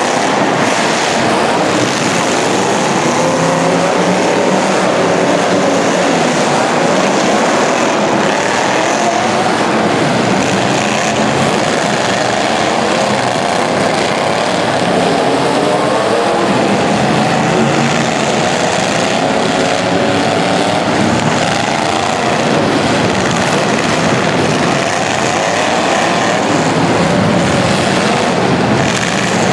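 Several racing engines running together, their overlapping pitches rising and falling as they rev and let off through a heat.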